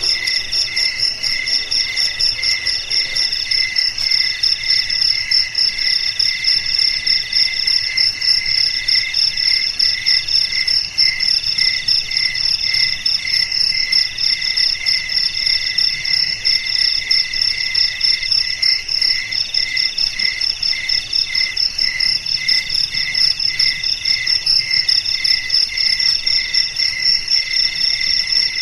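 Several crickets chirping at once in a steady, pulsing high-pitched chorus; one trill breaks off briefly about every two seconds and picks up again.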